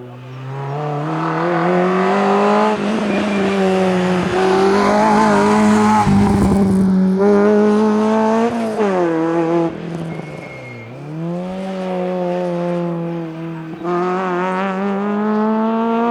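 A rally car's engine running at high revs under full throttle. Its pitch drops sharply twice, about nine and eleven seconds in, as it lifts off and changes gear, then climbs and holds again.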